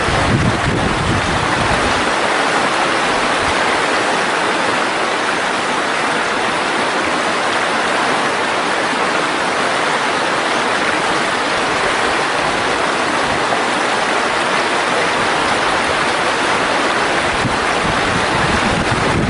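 Valley stream, its water running with a steady, even rush.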